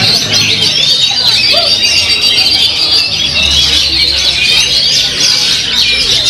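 Competition songbirds singing together in a dense, continuous chorus of rapid chirps, warbles and trills, over a low steady hum.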